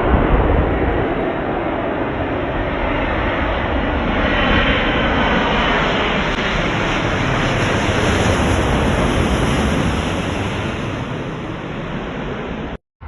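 Boeing 787-8 Dreamliner jet airliner arriving, its engines making a steady loud rumble that swells a little about four seconds in. The sound cuts off suddenly near the end.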